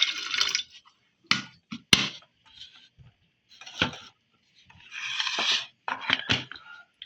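Water running into a glass electric kettle stops just after the start, followed by several sharp clicks and knocks as the kettle's lid is closed and the kettle handled, with another short rush of water about five seconds in.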